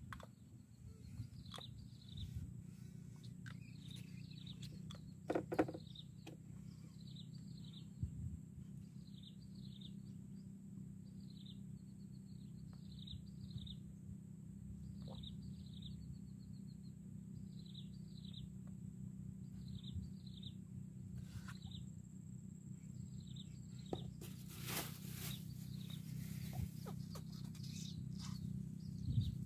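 A bird calling over and over with short, high chirps that fall in pitch, coming in quick runs, over a steady low hum and a thin, high, steady whine. A single knock about five seconds in and a louder rustling burst near the end.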